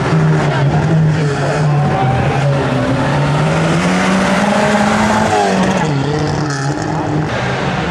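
Rally car engine revving hard as it drives the stage. Its pitch climbs and drops back several times as it shifts through the gears.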